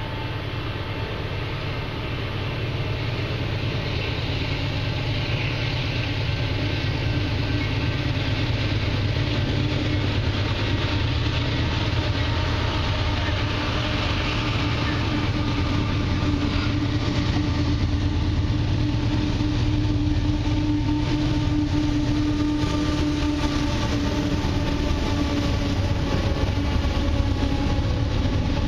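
Canadian Pacific freight train with diesel locomotives drawing near and passing. Its rumble grows steadily louder over the first several seconds, then holds as the locomotives go by, with a few steady tones running through it, followed by autorack cars rolling past.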